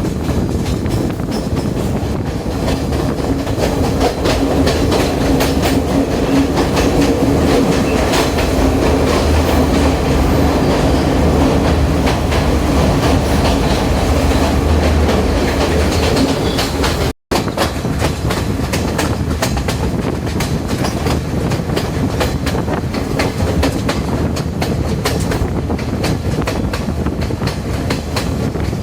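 Diesel intercity train running along the line, its wheels clattering over the rail joints. A steady hum runs under the clatter until a momentary dropout about two-thirds of the way through; after it the clatter goes on without the hum.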